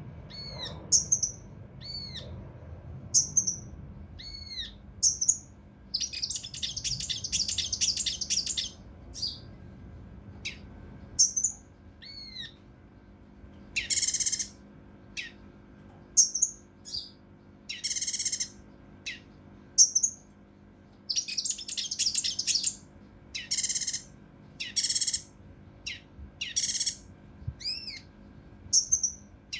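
Kinoi (cucak rante mas) singing: sharp, arching whistled notes at first, a rapid dense run of notes after about six seconds, then coarse raspy calls repeated roughly once a second through the second half.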